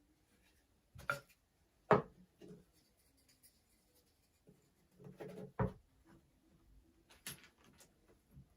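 Wooden beehive parts being handled and fitted together: a few sharp wooden knocks, the loudest about two seconds in, with rubbing and scraping between them.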